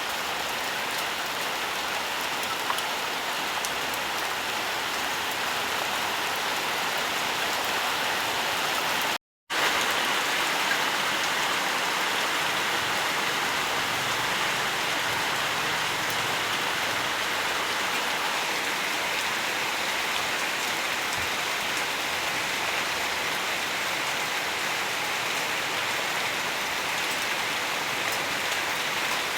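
Steady rain falling, a dense even patter of drops. About nine seconds in, the sound cuts out completely for a fraction of a second, then resumes.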